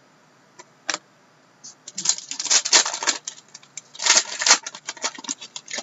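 Trading cards and their pack being handled: two single clicks, then from about two seconds in a quick run of crinkling and clicking.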